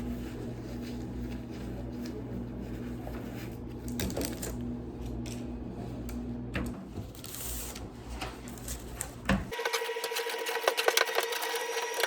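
A steady electric machine hum with a held low tone and occasional clicks, which cuts off abruptly about three quarters of the way through; then light background music with a quick ticking beat.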